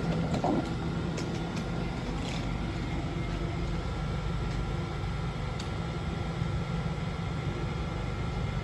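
Steady low rumble with a constant electrical hum, with no sudden events beyond a few faint clicks in the first couple of seconds.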